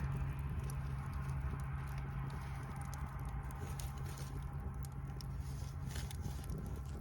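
Wood bonfire crackling, with scattered small pops and ticks over a steady low hum.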